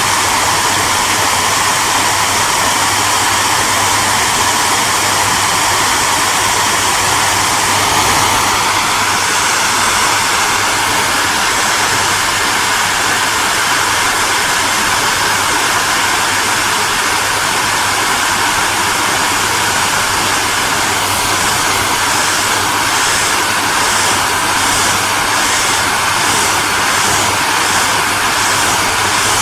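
Hair dryer running steadily: a constant rush of blown air over a low motor hum. About eight seconds in the pitch of the rush steps slightly higher. In the last third a regular pulsing, about one and a half beats a second, comes into the high hiss.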